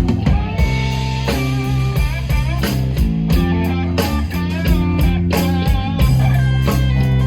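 Live rock band playing an instrumental break of a soul ballad: an electric guitar plays a lead with held and bending notes over bass and a steady drum beat.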